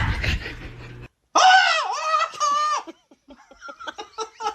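Laughter: a high, wavering drawn-out cry about a second in, then a rapid run of short giggling pulses, about four or five a second.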